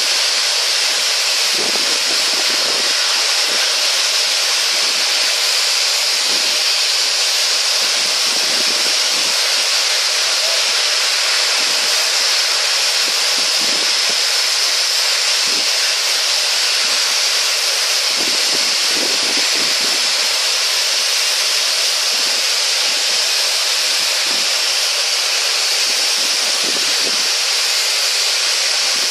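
Steam locomotive blowing off steam: a loud, steady hiss that keeps on without any chuffing rhythm.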